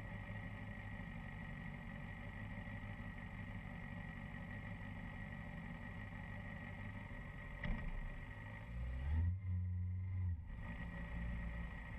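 Muffled motorcycle engine ticking over in stopped traffic, with a short click about eight seconds in. About nine seconds in the engine note rises and grows louder as the bike pulls away.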